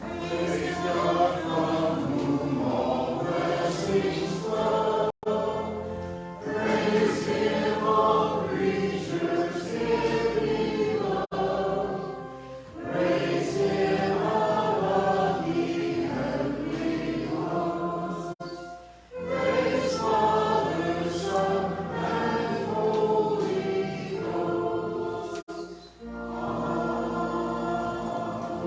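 A church choir singing a hymn with sustained instrumental accompaniment, in phrases broken by short pauses about every six to seven seconds.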